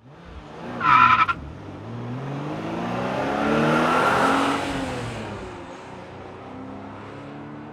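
Car engine sound rising in pitch and loudness to a peak about four seconds in, then falling away, like a revving or passing car. A short, loud, high squeal about a second in.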